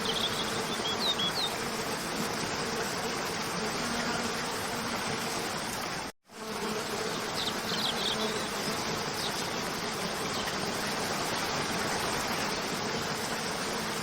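Water of a cascading stream running steadily, with short high chirps twice. The sound cuts out briefly about six seconds in.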